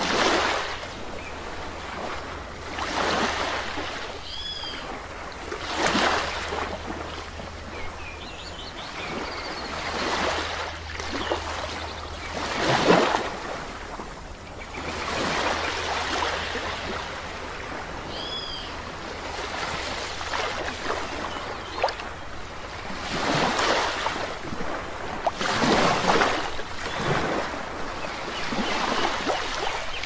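Sea waves washing onto a shore in repeated surges a few seconds apart, with a bird giving a short high call twice and a few faint chirps.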